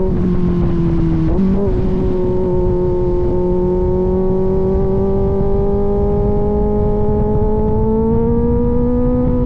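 Kawasaki Z900 inline-four motorcycle engine running through an aftermarket AR exhaust while riding. The note dips briefly about a second and a half in, then rises slowly and steadily as the bike gathers speed, over a low rush of wind and road noise.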